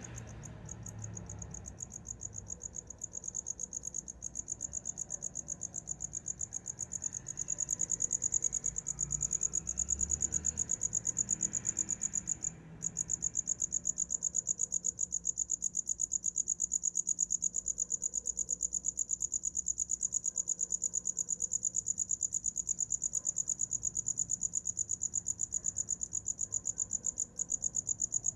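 Cricket chirping, a high trill pulsing in an even rhythm. It grows louder over the first several seconds and breaks off for a moment about halfway through.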